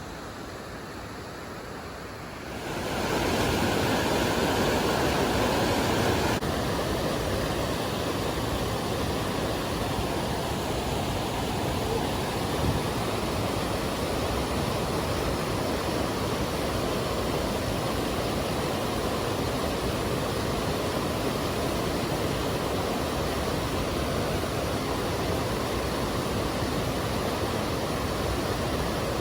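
Rushing water, a steady loud hiss that swells about two seconds in and then holds.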